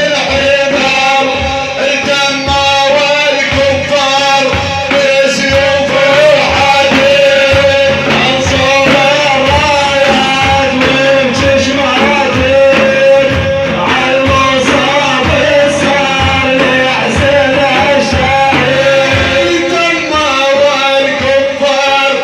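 Men singing an Iraqi Islamic devotional praise chant (manqaba) over rapid, steady frame-drum beats, with one tone held underneath throughout.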